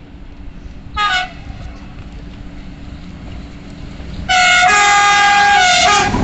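Freight train locomotive horn sounding a short toot about a second in, then a louder blast of nearly two seconds near the end, several tones at once.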